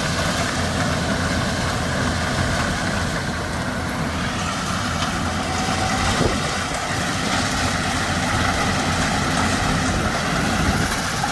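Corn harvester running steadily, a continuous low engine drone with no break.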